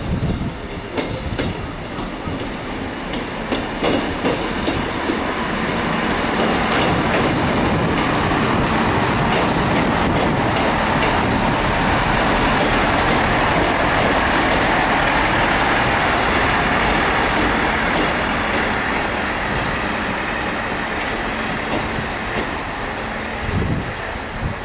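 Class 158 Express Sprinter diesel multiple unit running along the platform close by: wheels clicking over rail joints as it comes in, building to a loud steady rumble as the coaches pass, then easing off as it draws away.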